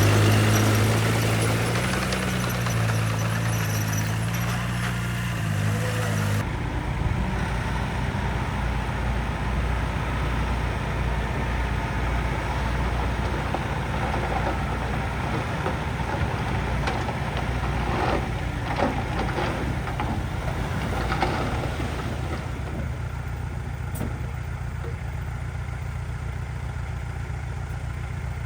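Heavy diesel engine of earthmoving machinery running steadily, with a few metallic knocks and clanks partway through. The sound changes abruptly about six seconds in.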